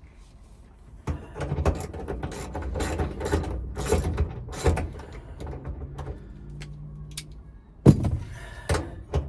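A socket ratchet working a 15 mm bolt loose on a steering column: a run of irregular clicks and metal clatter, then a few sharp knocks near the end.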